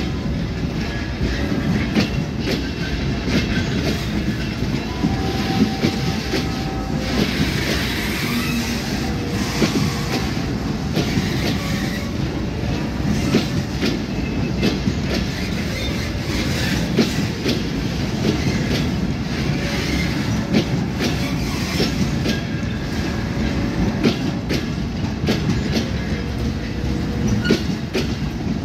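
Bogie oil tank wagons of a freight train rolling past close by: a steady rumble of steel wheels on rail, with rapid irregular clicking as the wheels cross the rail joints.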